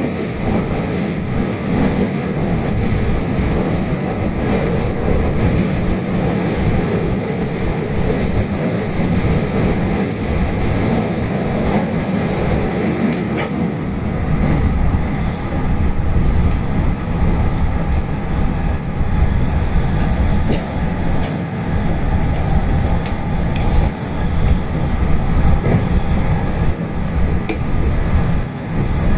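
JR train running along the line, heard from inside the carriage: a steady rumble of wheels on the track and running gear, a little louder from about halfway through.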